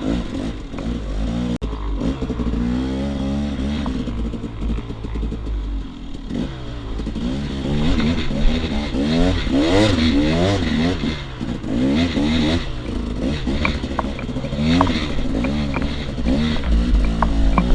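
KTM 300 XC-W two-stroke enduro motorcycle engine revving up and down repeatedly as it is ridden off-road, with scattered clattering knocks in the second half and a low rumble at the start and end.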